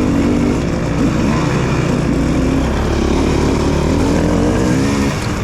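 Dirt bike engine running under throttle while being ridden, its pitch rising and falling several times as the rider works the throttle.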